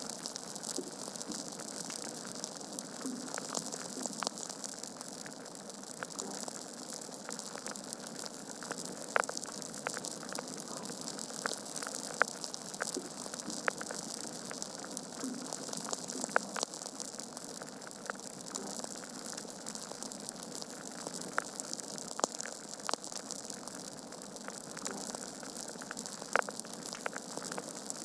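Wood logs burning in a fireplace: a steady hiss of flame with irregular sharp crackles and pops, a few of them louder than the rest.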